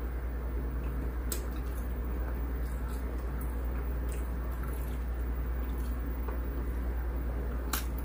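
Close-miked chewing of keto pizza: soft, wet mouth sounds with a few faint clicks, over a steady low hum.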